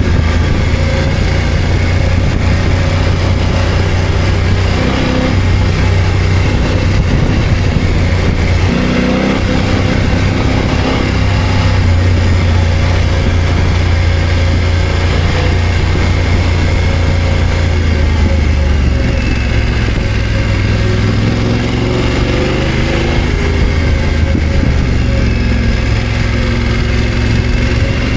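BMW F900GS parallel-twin engine running as the motorcycle is ridden off-road at low to moderate revs, its pitch shifting with the throttle about a third of the way in and again about two-thirds in, over a steady rushing noise.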